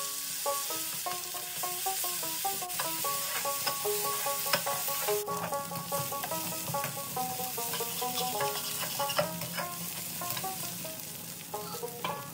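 Onion paste frying in hot mustard oil in a metal kadai: a steady sizzle, with a spatula stirring and scraping against the pan in quick ticks. Background music carries a melody of stepping notes over it.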